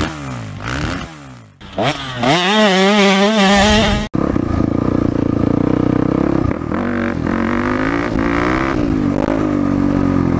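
Yamaha WR450F dirt bike's single-cylinder four-stroke engine revving hard, its pitch rising and wavering. It cuts off suddenly about four seconds in and gives way to the engine running on at lower revs that swell and drop.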